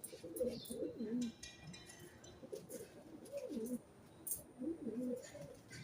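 Pigeons cooing, several low rolling coos one after another, with a few short high clicks among them.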